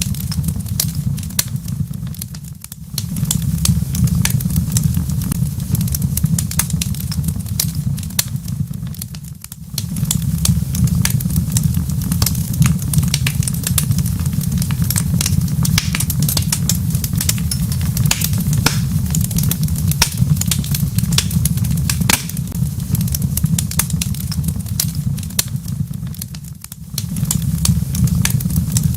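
Wood fire crackling in a fireplace: dense, irregular snaps and pops over a steady low rumble, briefly dipping in loudness three times.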